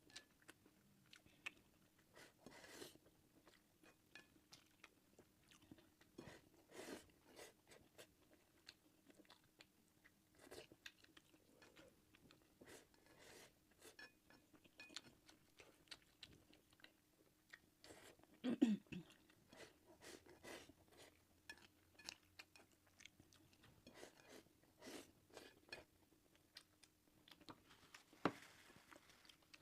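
Close-up mouth sounds of someone eating egg fried rice and Sichuan pork sausage: soft chewing with small wet clicks, smacks and light crunches. A short, low falling vocal sound comes about two-thirds of the way through.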